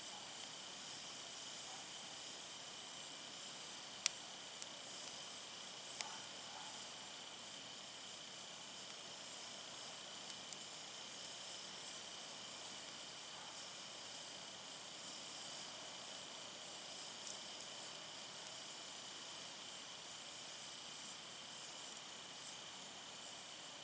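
Wood campfire burning under a steady faint hiss, with a sharp crackling pop about four seconds in, another about six seconds in, and a few small ticks.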